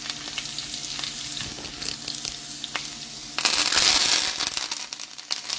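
Hot oil sizzling in a frying pan with okra, garlic and cumin seeds, with scattered small crackles. About three and a half seconds in, the sizzle surges louder for about a second as fresh curry leaves hit the oil.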